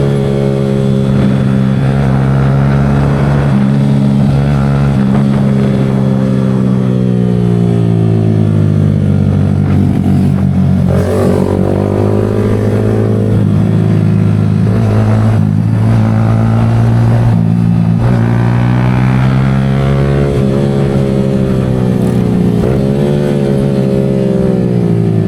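Yamaha R15 V4M's 155 cc single-cylinder engine running through an aftermarket Leo Vince exhaust. Its pitch sinks slowly over the first several seconds, then rises and falls again several times.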